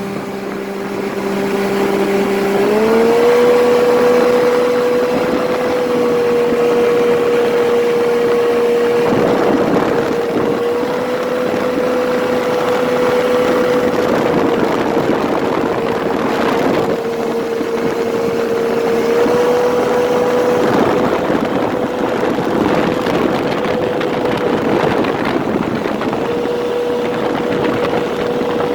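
Jet-drive outboard boat motor running. About three seconds in the throttle opens and the engine note rises, then holds steady at speed with small dips and rises in pitch, over a steady rushing noise.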